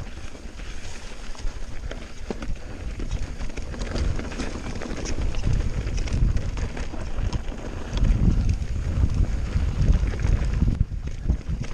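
Mountain bike descending a rough trail: tyres on rock and gravel with the bike clattering, and wind buffeting the microphone, heavier about eight seconds in.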